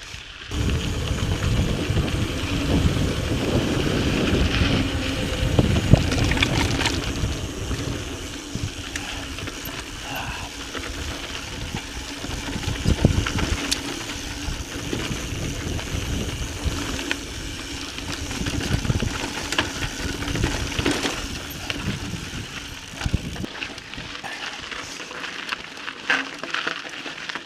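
2017 Intense Tracer mountain bike ridden over a dirt trail: tyres rolling and crunching, with a constant low rumble and rattles and knocks from the bike over rough ground. The low rumble drops away near the end.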